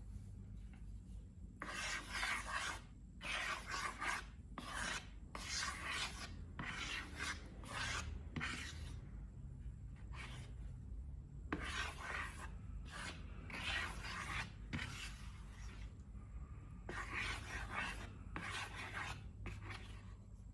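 Repeated rubbing strokes, each about half a second to a second long, in uneven runs with short pauses between them.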